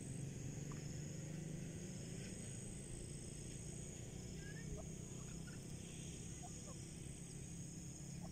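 Faint, scattered short chirping calls of grey francolin over a steady low hum, with a steady thin high-pitched tone above.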